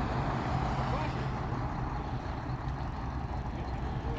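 A large vehicle's engine idling, a steady low rumble with roadside noise around it.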